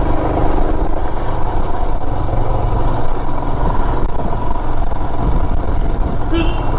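Motorcycle engine running steadily at low speed while riding. A brief higher-pitched sound cuts in about six seconds in.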